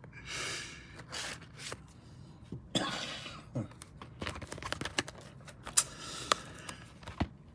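A man coughing and clearing his throat in a few short bouts, with scattered light clicks between them.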